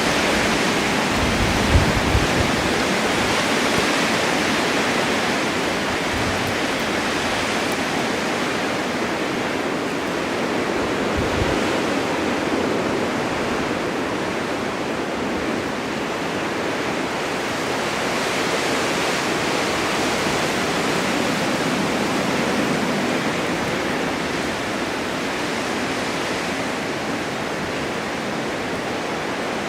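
Blizzard wind driving snow: a steady rushing that slowly swells and eases, with a few brief low thumps about two seconds in.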